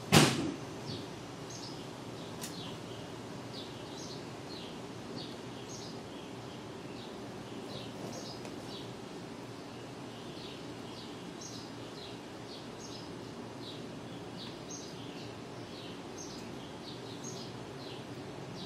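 Short, high, falling bird chirps repeating at about two a second over a steady low background hum, after one sharp click right at the start.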